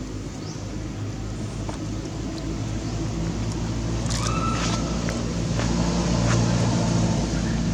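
A motor vehicle's engine running steadily with a low hum that grows a little louder. A short high-pitched call sounds about four seconds in.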